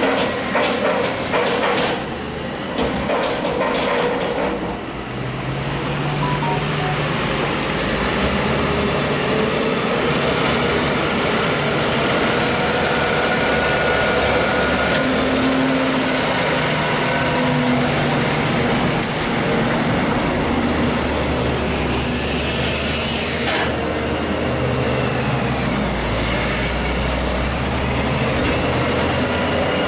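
Heavy farm tractors and machinery running at a maize silage clamp, the engine note shifting up and down under load, with a few short hisses in the second half.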